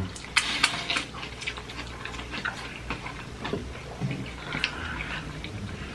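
Someone eating crunchy fried food: irregular short crisp crunches and clicks of biting and chewing, several in the first second, then scattered.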